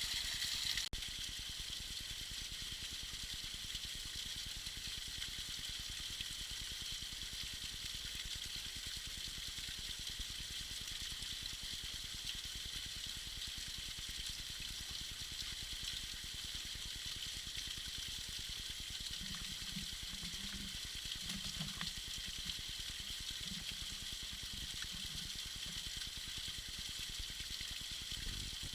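Tiny icy waterfall: a steady, hissing splash of water falling and trickling, with a slight drop in level about a second in.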